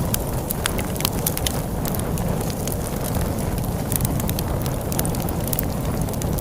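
Wood fire crackling with frequent sharp snaps and pops over a steady low rumble of wind.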